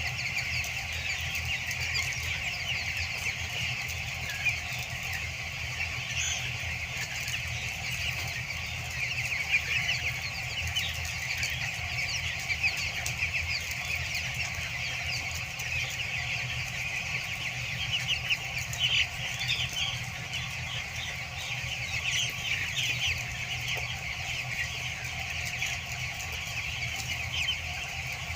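A large flock of 14-day-old broiler chicks peeping continuously in a dense chorus of short high chirps, over a steady low hum.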